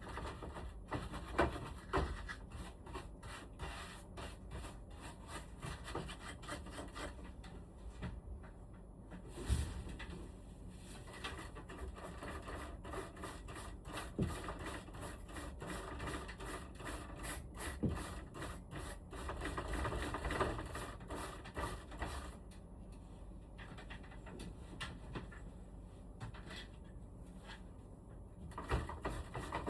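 Rubbing and scraping as air conditioner parts are cleaned by hand, with many scattered light clicks and knocks.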